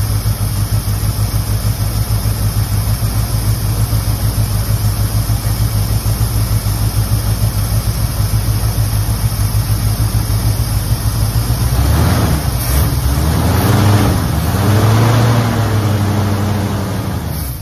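A 1969 Ford's engine idling steadily, running again after sitting unstarted for 23 years. About twelve seconds in it is revved up and down a few times.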